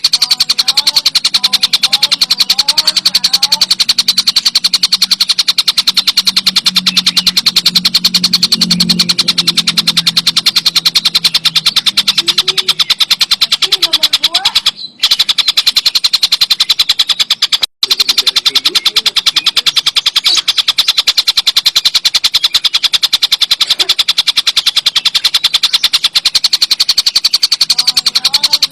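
Tengkek buto kingfisher calling in a loud, fast, unbroken rattling trill, with two very brief dropouts midway.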